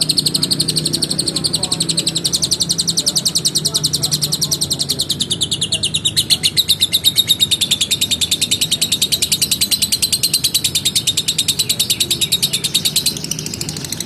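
Lovebird giving a long 'ngekek' chatter: one unbroken run of rapid, evenly repeated sharp high chirps that stops about thirteen seconds in. This is the prolonged chattering song of a lovebird in full voice ('gacor').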